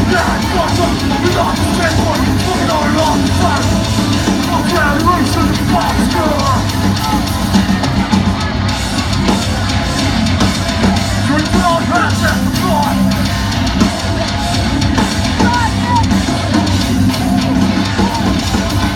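Hardcore metal band playing live at full volume: distorted guitars, bass and drums, with harsh shouted vocals.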